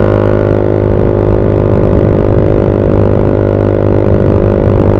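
Motorcycle engine running at a steady speed through a custom-made exhaust with a home-built muffler, a loud, even drone with no change in revs.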